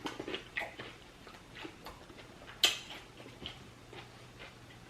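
Close-up eating sounds: irregular wet mouth clicks and smacks of chewing seafood, with one sharper, louder click a little past halfway.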